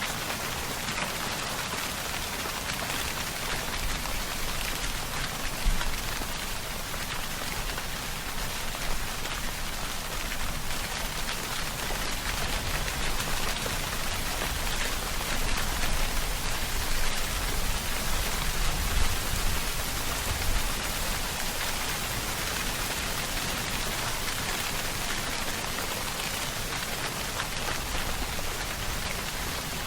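Steady rainfall: a dense, even patter of drops on a surface, with a couple of brief louder spatters standing out.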